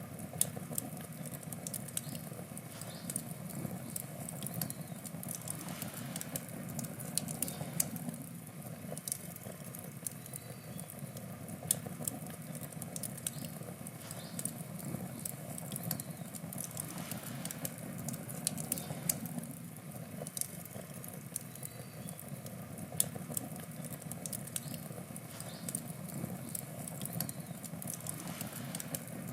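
Wood campfire burning: a steady low rush of flame with frequent sharp crackles and pops from the burning wood, swelling a little now and then.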